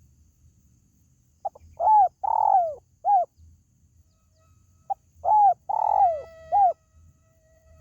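Spotted dove (tekukur) calling: two phrases of its coo, each a short note followed by three rising-and-falling coos, the middle one longest, the second phrase about three and a half seconds after the first.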